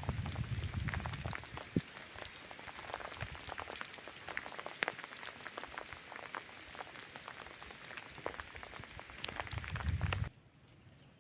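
Rain falling, with many separate drop hits ticking over a steady hiss. A low rumble comes at the start and again shortly before the sound cuts off abruptly near the end.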